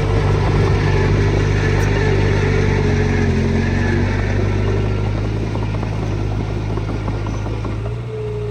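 Diesel engine of heavy earthmoving machinery running steadily under load, its pitch dropping slightly about halfway through.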